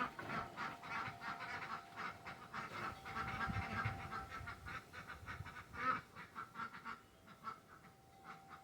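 Ducks quacking in a rapid run of short calls, thinning out near the end.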